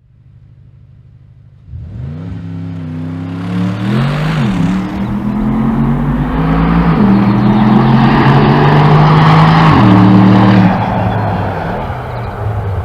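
Bentley Continental GT S's twin-turbo 4.0-litre V8 through its sports exhaust. The engine comes in suddenly about two seconds in and revs up with a short blip around four seconds. It pulls hard with a drop in pitch around seven seconds, like an upshift, holds, then eases off and fades near the end.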